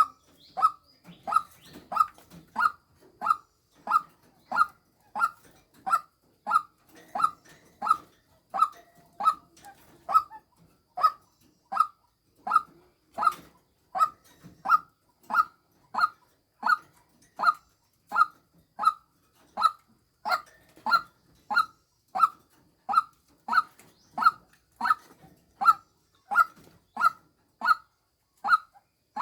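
Female white-breasted waterhen calling, the kind of recording used as a lure call: one short clipped note repeated steadily, about twice a second.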